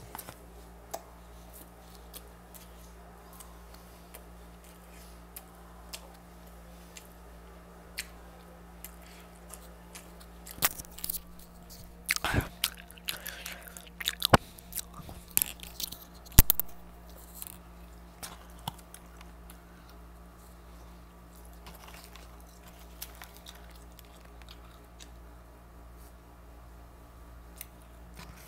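A person chewing and biting fast food at close range, with scattered small mouth clicks and a cluster of louder crunches and sharp clicks in the middle, over a steady low hum.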